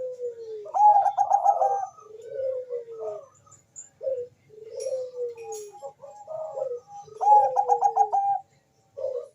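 Zebra dove (Bangkok perkutut) cooing its song. Twice a quick run of stuttered notes leads into long coos that fall in pitch, and the phrase is repeated.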